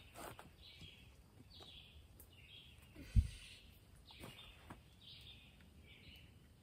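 Faint bird calls outdoors: short, buzzy high notes repeating about once a second. A single low thump about three seconds in.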